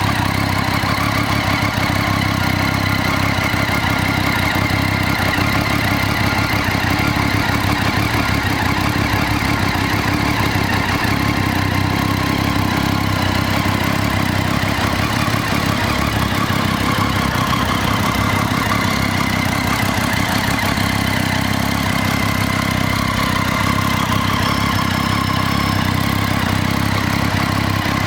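Triumph Street Triple 675's inline three-cylinder engine idling steadily.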